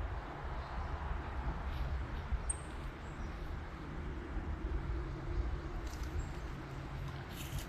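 Outdoor ambience of low rumbling wind noise on the microphone, with a single short high chirp about two and a half seconds in.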